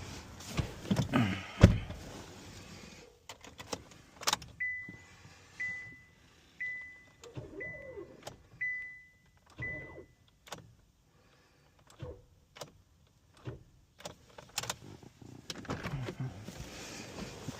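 A car's warning chime beeps six times, about once a second, amid scattered clicks and knocks of handling.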